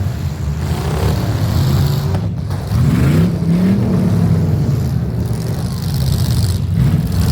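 Demolition derby engines running together, one revving up and back down about three seconds in.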